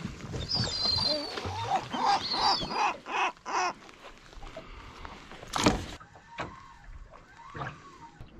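Birds calling in a run of repeated calls over the first few seconds, with a few fainter calls later; a single sharp knock about five and a half seconds in.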